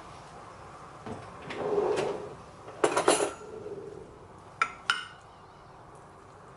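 Dishes and cutlery clattering: a short scrape, then a quick rattle of knocks about three seconds in, and two sharp clinks near five seconds.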